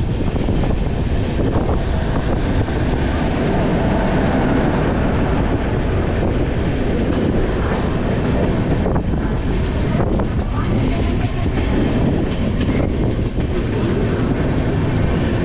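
Passenger express train running on the rails, heard from an open coach doorway as it pulls into a station: a steady, loud noise of wheels on track.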